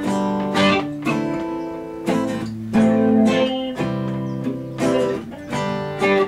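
Background music: guitar chords strummed and plucked, several strokes a second apart, each note ringing on.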